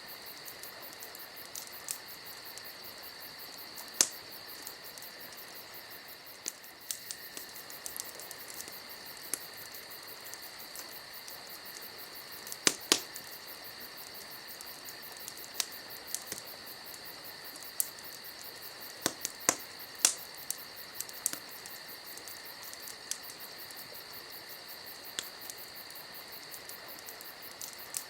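Campfire crackling with scattered sharp pops, a few much louder than the rest, over a steady high chirring of insects.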